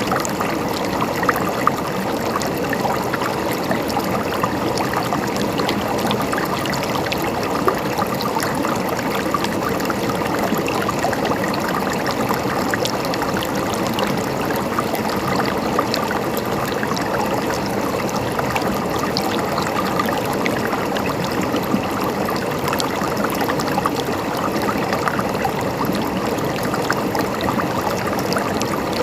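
River water flowing and babbling over stones, a steady rushing with many small splashes and trickles.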